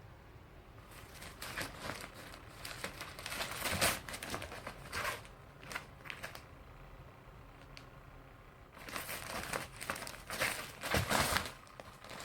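Crinkly rustling and scratching in two spells of a few seconds each: a cat pouncing at and pawing a battery-powered cat toy with a randomly moving feather.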